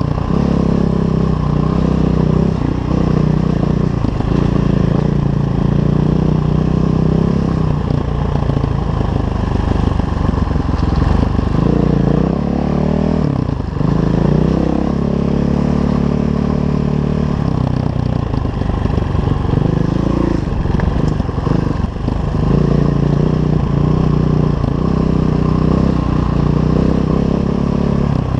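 KTM 500 EXC enduro bike's single-cylinder four-stroke engine pulling along a dirt trail, the revs rising and falling as the throttle is opened and closed, with a few dips where it is shut off briefly. Knocks and rattles from the bike over the rough ground mix in.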